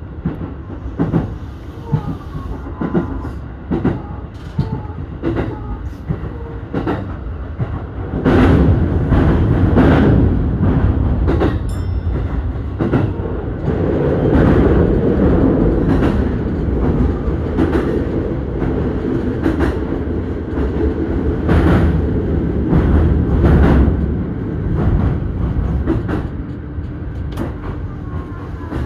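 JR Keihin-Tohoku Line E233-series electric train running at speed, heard from inside the car: a steady rumble of wheels on rail with irregular clacks over rail joints. It grows louder about eight seconds in.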